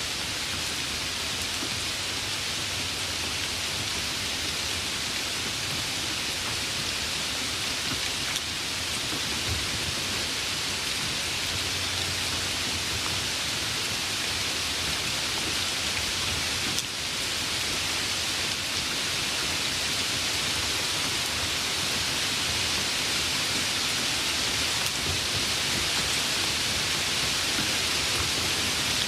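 Steady, even rain hiss, with a low rumble of distant thunder about ten seconds in.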